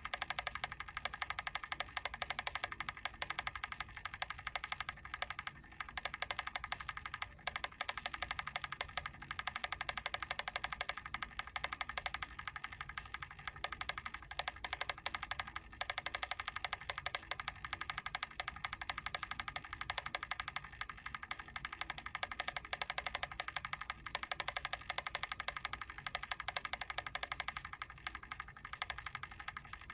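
Mechanical timer ticking rapidly and steadily, its clockwork escapement clicking on without a break.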